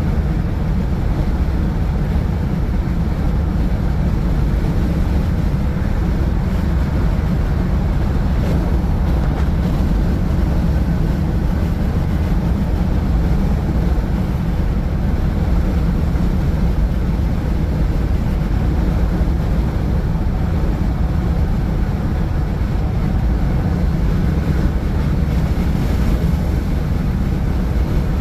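Steady road and engine noise inside a moving vehicle at highway speed: a constant low rumble of tyres and engine with wind noise.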